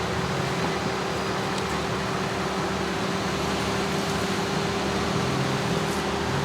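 Off-road vehicle's engine running steadily at low revs, a constant hum with a steady drone, as it crawls slowly over rock.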